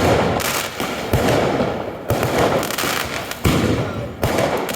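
Fireworks display: loud bangs of bursting aerial shells about once a second, with steady crackling between them.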